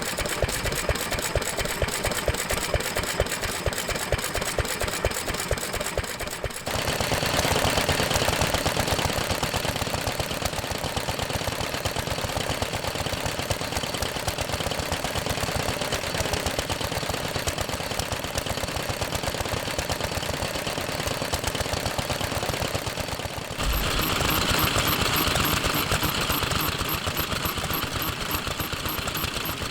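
Old stationary engines running, with a rapid, regular beat of firing strokes. The sound changes abruptly twice, about six and a half and twenty-three and a half seconds in, to another engine's note.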